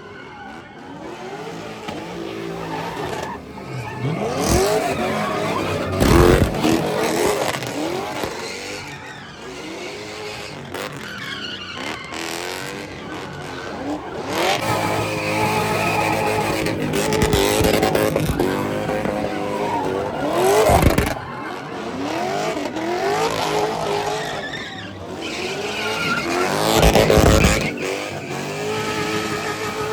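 Cars doing burnouts: engines revved hard over and over, the pitch climbing and dropping, with tyres squealing and screeching in a haze of noise. There are loud peaks about six seconds in, around twenty-one seconds and again near the end.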